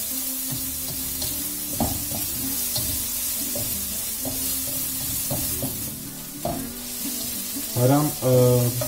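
Chopped green onions and garlic sizzling in hot oil in a frying pan as a spatula stirs them, scraping and tapping against the pan. Near the end two short pitched notes, louder than the frying, sound over it.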